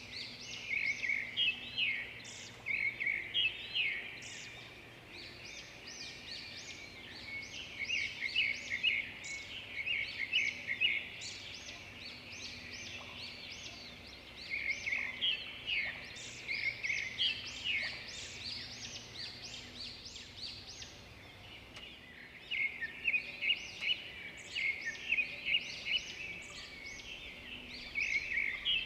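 A chorus of many small songbirds chirping and trilling at once, overlapping calls, with busier, louder bursts coming every few seconds.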